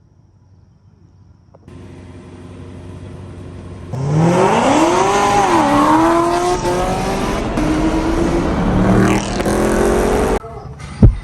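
Supercharged V8 of a Chevrolet Camaro ZL1 1LE tuned to 800 hp. It runs steadily, then about four seconds in it revs hard under acceleration: the pitch climbs steeply, dips and holds high. The engine sound cuts off suddenly near the end, and a couple of heavy thumps follow.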